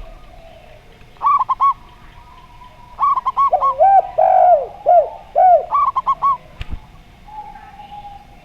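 Doves cooing: a zebra dove (perkutut) gives three quick bursts of short, clipped notes, and a derkuku answers in the middle with a run of lower, longer arched coos. A single sharp click comes near the end.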